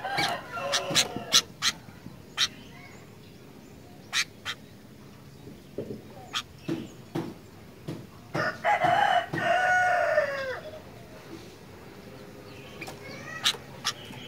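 Rooster crowing: one long call of about two seconds, falling at its end, about two thirds of the way in, with a shorter crow-like call at the very start. Sharp short clicks or chips are scattered between them.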